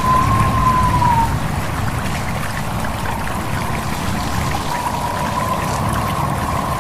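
A stream trickling and babbling steadily. Over it runs a thin, high, whistling tone that fades out about a second in and comes back near the end.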